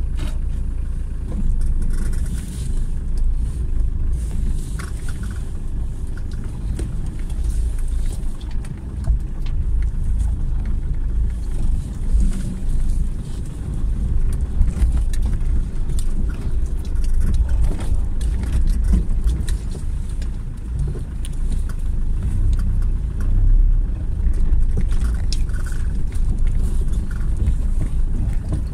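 Jeep Cherokee XJ's 2.1 turbodiesel four-cylinder engine running at low speed with a steady deep rumble, heard from inside the cabin, with water splashing and hissing around the wheels as it crosses a shallow creek.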